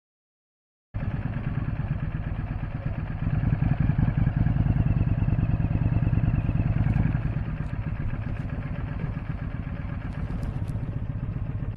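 Motor vehicle engine running steadily, cutting in abruptly about a second in and growing louder for a few seconds in the middle before easing back.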